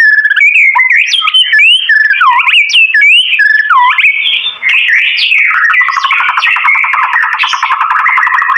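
White-rumped shama (murai batu) singing loud, varied whistled phrases with swooping rising and falling notes. About halfway through it switches to a fast, rattling trill of rapidly repeated notes.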